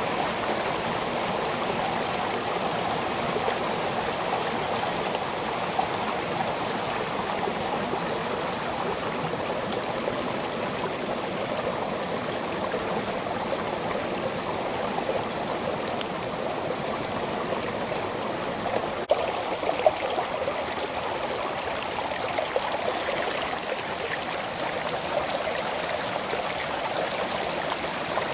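Creek water flowing over rocks, a steady babbling and trickling with no break.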